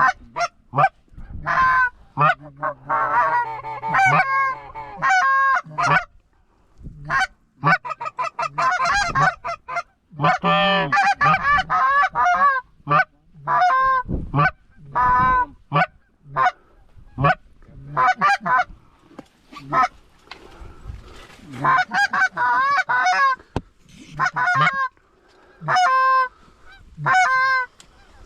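Geese honking and clucking, many short loud calls in quick succession.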